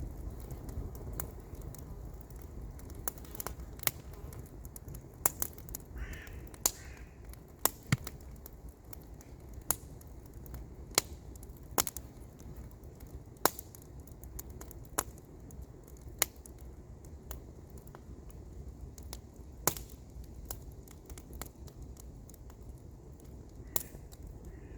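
Wood campfire crackling, with sharp pops at irregular intervals over a steady low rumble. A short bird call comes about six seconds in.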